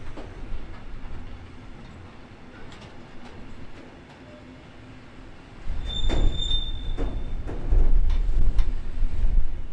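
Freight train of stake wagons loaded with large steel pipes rolling past: a low rumble with repeated knocks of wheels on the track. The rumble grows louder a little past halfway, and a brief high-pitched wheel squeal follows soon after.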